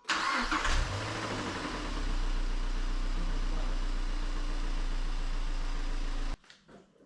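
Mazda MX-5 NC's four-cylinder engine starting, catching with a rough burst, then idling steadily, before the sound cuts off suddenly near the end. Its owner says the engine doesn't sound very healthy.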